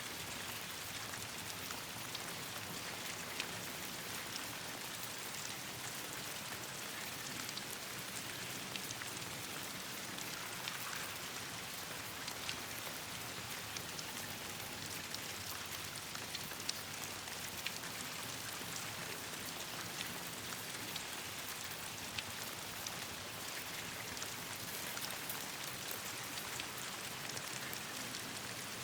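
Steady rain falling on leaves and branches, an even hiss with scattered sharp ticks of drops through it.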